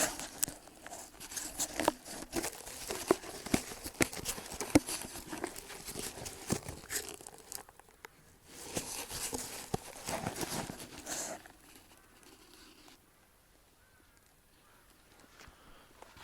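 Close rustling and crinkling of dry material with many small clicks and taps, in two stretches, then it dies down for the last few seconds.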